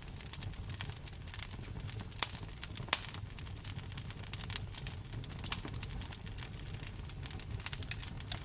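Wood fire crackling steadily in a fireplace, with a low rumble under dense small crackles and a few sharper pops of burning wood.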